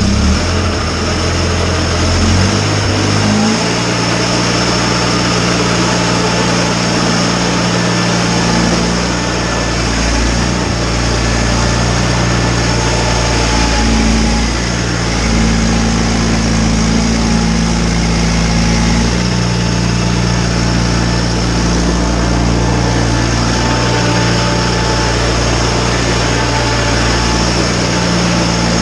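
John Deere 318 garden tractor's Onan twin-cylinder engine running steadily, its note shifting about three seconds in and then holding, with a constant hiss over it.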